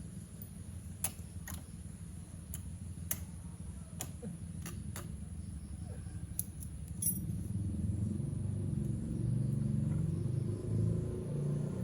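Scattered metallic clinks and taps of tools and parts being handled while working on a motorcycle, over a steady low rumble that grows louder about halfway through.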